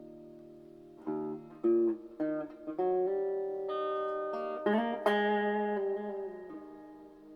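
Plucked string instrument playing: a held chord fades, then single notes are picked one after another from about a second in, and a fuller chord struck near the five-second mark rings and slowly dies away.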